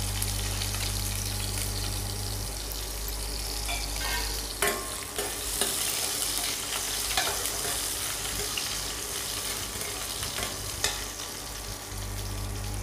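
Shallots sizzling in hot sesame oil with mustard seeds, cumin and fenugreek in a stainless steel kadai, with a few sharp clicks of a steel ladle stirring against the pan. A low hum from the induction cooktop cuts out about two seconds in and comes back near the end.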